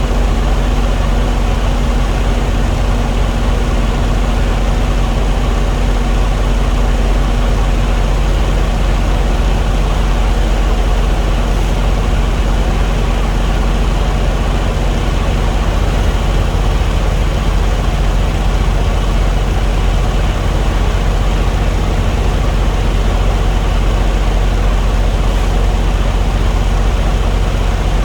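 Diesel engine idling steadily, a loud, even low hum; its tone shifts slightly about eight seconds in.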